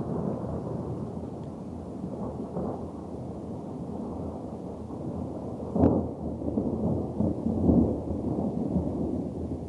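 Thunder in a snowstorm (thundersnow): a long low rumble rolling on, with a sharper, louder crack about six seconds in and more rumbling after it.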